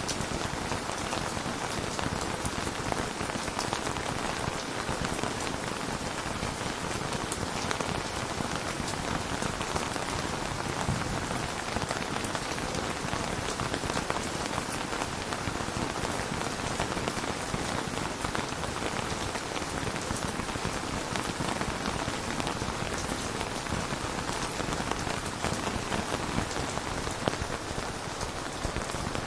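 Steady rain falling on a hard surface, a constant hiss with many small drop ticks scattered through it.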